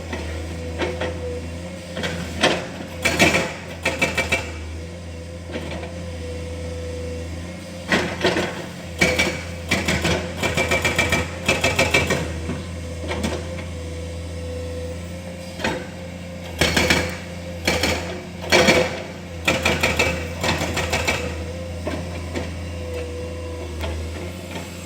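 Excavator's diesel engine running steadily with a steady hydraulic whine, over irregular clusters of clanks and knocks as rock and steel strike each other, busiest in two spells in the middle.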